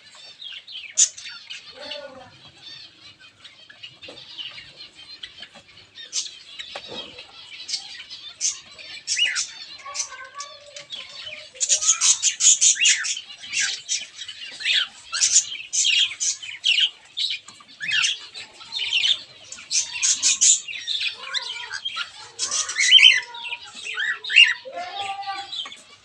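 A flock of small cage birds chirping and calling over one another in quick, high notes, growing busier and louder about halfway through.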